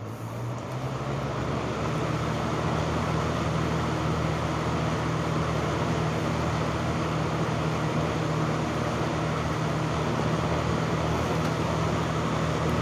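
1970s Lakewood 20-inch box fan starting up on high speed: the motor hum and the rush of air from the blades build over the first couple of seconds as it spins up. It then runs steadily with a low motor hum under the air noise.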